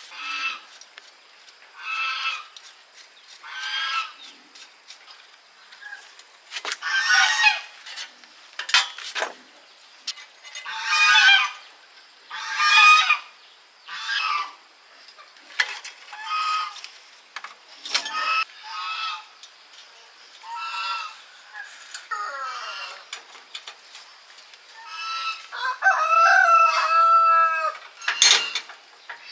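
Chickens clucking in short repeated calls every second or two, with a rooster crowing in one long call near the end.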